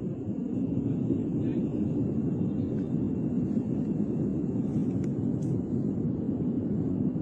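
Steady low rumbling roar of an erupting volcano.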